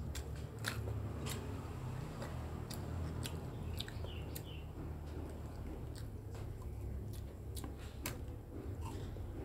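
A child chewing a mouthful of rice and spicy fish, with scattered short, wet smacking clicks from the mouth and fingers over a low steady hum.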